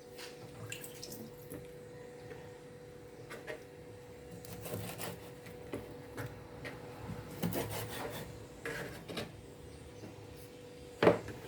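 Knife cutting up raw pork chops on a cutting board: soft, scattered knocks and rubbing, with a sharper knock near the end. A faint steady hum runs underneath.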